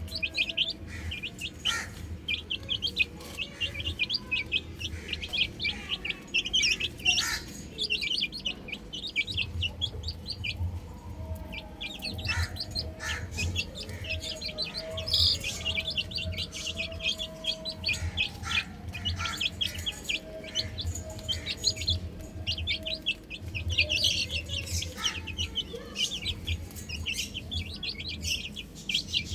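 A group of baby chicks peeping continuously: many short, high chirps overlapping in rapid succession, with a low rumble underneath.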